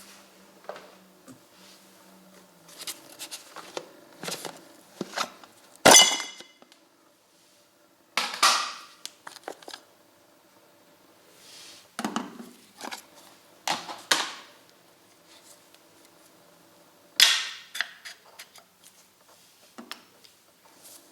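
Scattered sharp metallic clanks and clicks of metal parts being handled and set down. The loudest comes about six seconds in and rings briefly; more follow near the middle and end.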